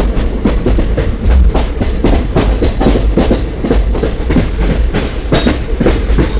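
Moving passenger train rumbling along the track, its wheels clattering irregularly over the rails.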